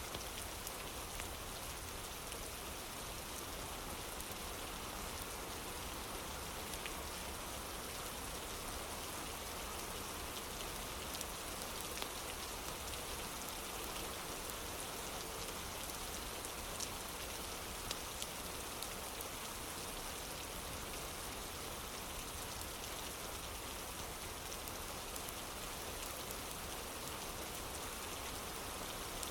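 Steady rain falling on a wooden porch, an even hiss with a few sharp clicks scattered through it.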